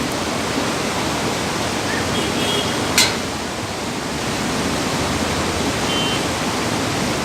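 Fast-flowing mountain river rushing steadily, with one sharp click about three seconds in.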